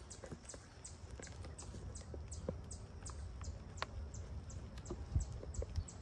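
A small bird chirping rapidly, short high notes falling in pitch at about four a second, over a steady low rumble of background noise, with a few light clicks of hive equipment being handled.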